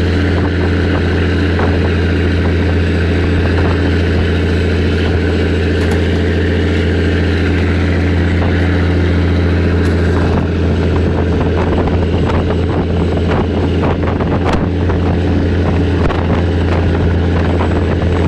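Boat engine running steadily, a deep even hum that does not change in pitch, with faint light knocks in the second half.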